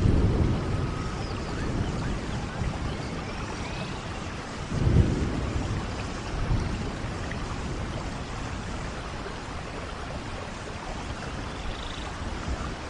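Steady rainfall with low rumbles of thunder, the loudest about five seconds in.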